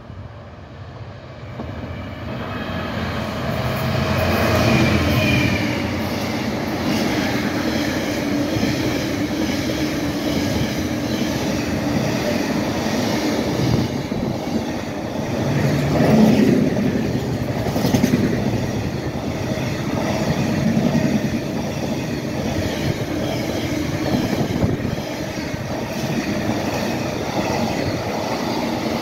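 A Class 66 diesel freight locomotive approaches and passes, its engine growing loud over the first few seconds. A long train of container wagons then rumbles and clatters steadily past over the rails, with a few sharper knocks midway.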